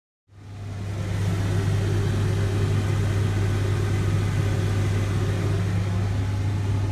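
A kitchen appliance motor humming loudly and steadily, with a strong low electrical hum. It comes in about a quarter second in, swells over about a second, then holds steady.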